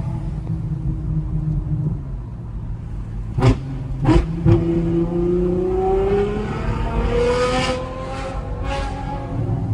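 Straight-piped Ferrari V12 exhaust running, with three sharp cracks about three and a half to four and a half seconds in, then the revs climbing steadily for about three seconds.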